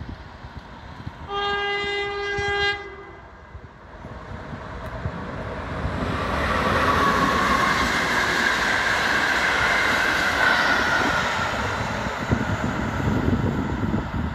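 Train horn sounded once for about a second and a half as a warning at a level crossing. Then a passenger train's coaches run past with a rising rush of wheel and rail noise, loud from about six seconds in.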